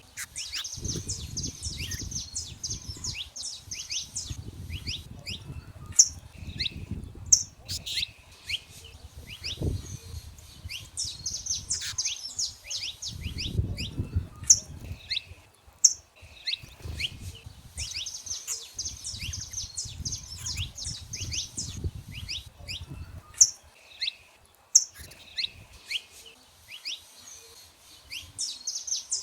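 Wild saffron finches singing: repeated phrases of quick, high chirps and trills lasting a few seconds each, with sharp single high calls in between. A low, uneven rumble runs underneath.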